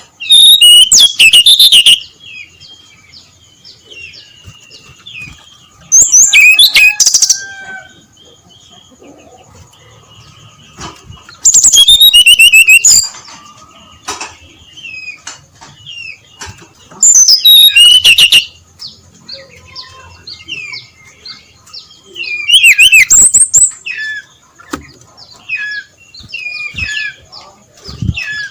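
Brown-chested jungle flycatcher (sikatan rimba dada coklat) singing its long, loud song. There are five rapid, high phrases of about a second and a half each, roughly every five to six seconds, with softer chirps in between. A faint steady high tone runs underneath.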